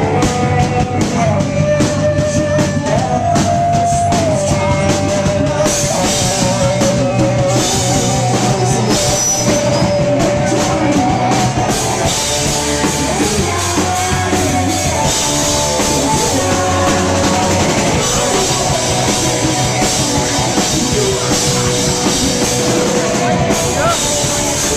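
Rock band playing live: a full drum kit and guitars under a held, wavering lead melody that slides from note to note.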